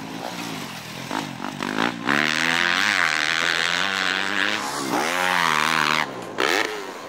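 Motocross bike engine revving hard, its pitch climbing and falling again and again as it accelerates and shifts. It is fainter for about two seconds, then loud, with short dips in the revs near the end.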